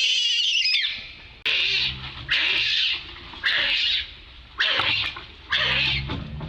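Young monkey screaming loudly and shrilly in a string of about six screams, each lasting roughly half a second to a second. These are distress screams, calling for help.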